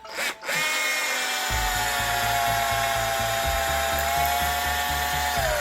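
Keyang DD-1200 12-volt cordless drill driver's motor running with a steady whine as it drives a self-drilling screw, the pitch sagging slightly under load and dropping as it stops near the end. Background music with a steady beat underneath.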